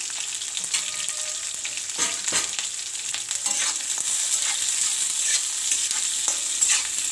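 Sliced onions and dried red chillies sizzling in hot mustard oil in an iron kadai, a steady high hiss. From about two seconds in, a spatula stirs them, with scattered scrapes and knocks against the pan.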